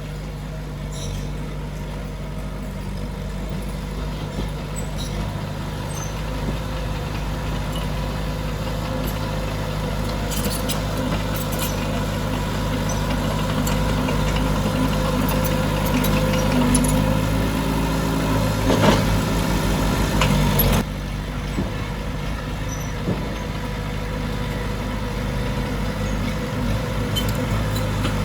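Heavy diesel earthmoving machine engine running under load, its steady drone growing gradually louder with scattered knocks and clanks, then dropping back abruptly about three-quarters of the way through.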